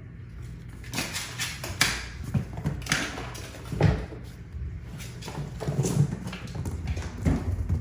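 Kittens' paws pattering and scampering: quick irregular taps with a few heavier thumps, the loudest about four seconds in.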